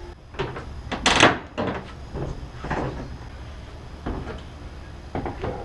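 A series of knocks and clunks from hand work on the truck while its hood is being taken off, the loudest about a second in and lighter ones after.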